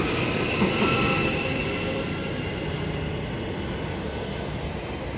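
Electric suburban train pulling away from the platform: a whine from its traction motors over a rumble of wheels on rail. The whine fades about two seconds in and the whole sound slowly dies away as the train leaves.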